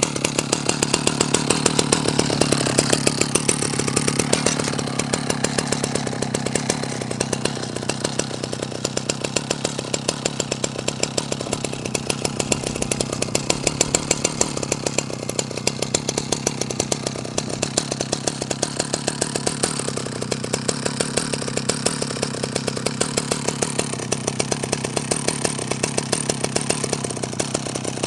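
Husqvarna L65 chainsaw's two-stroke engine running steadily at idle, a fast even firing beat with little change in speed, on its first run in ten years.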